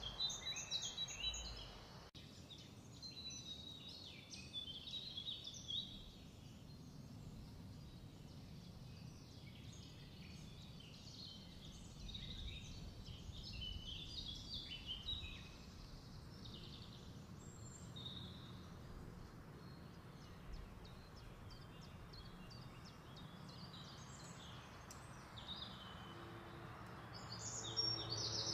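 Small birds chirping and twittering in short, irregular bursts, over a faint low background hum, growing louder near the end.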